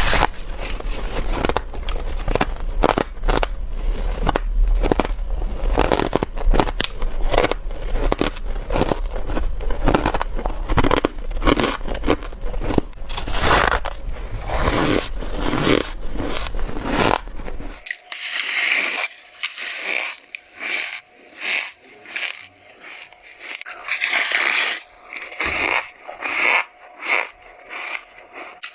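A person biting and chewing frost, with crisp, dense crunching. About two-thirds of the way in, a low background hum drops away and the crunches come as separate bites, one or two a second.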